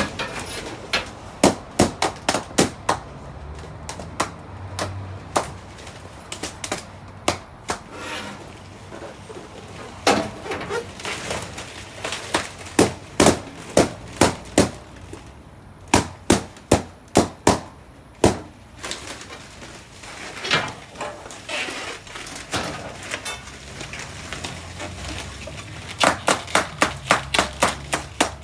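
Balloons bursting one after another: runs of sharp pops, several a second, broken by short pauses.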